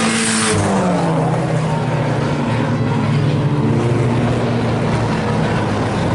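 IMCA Sport Compact race cars' four-cylinder engines running hard on a dirt oval, their pitch falling about half a second in as the drivers lift off, then holding steady. There is a brief rush of noise right at the start.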